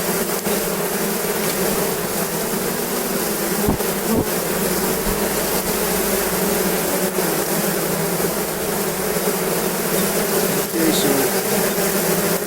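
Honeybees buzzing around an opened hive of a strong colony: a steady, dense hum.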